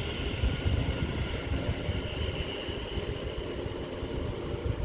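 London Northwestern Railway class 730 electric multiple unit pulling out of the station: a steady high electric whine from its traction equipment over the low rumble of the train.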